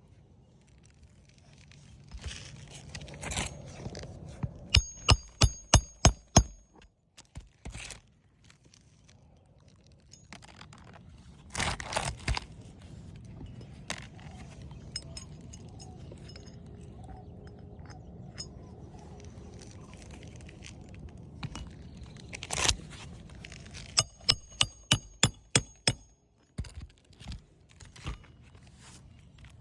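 Hammer driving roofing nails through an asphalt shingle: two quick runs of about six sharp, ringing strikes, with single knocks and the scrape and crunch of shingles being handled in between.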